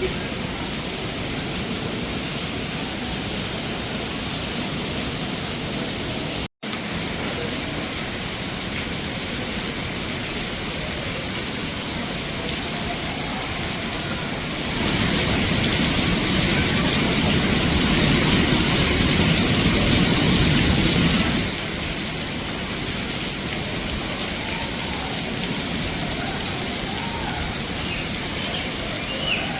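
Heavy rain falling as a steady hiss, growing louder for several seconds in the middle. The sound cuts out for a split second about six seconds in.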